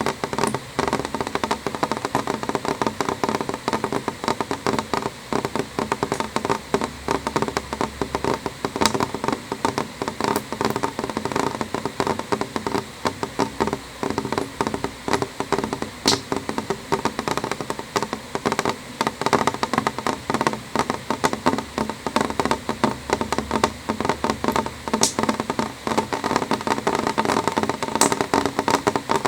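Raindrops hitting window glass: a dense, steady run of small rapid taps, with a few sharper, louder ticks scattered through.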